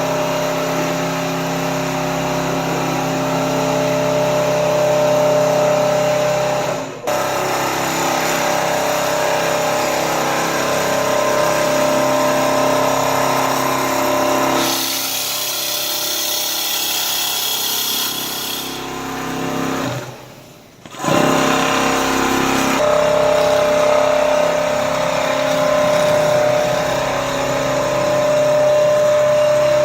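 Richpeace single-head computerized quilting machine running, its needle head stitching with a steady motor whine. The sound breaks off briefly twice, and a hissier stretch comes in the middle.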